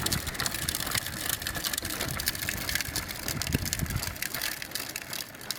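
Small electric motor of a child's ride-on toy motorcycle running as it moves, with crackling and rumbling from the wheels and ride. It eases off near the end.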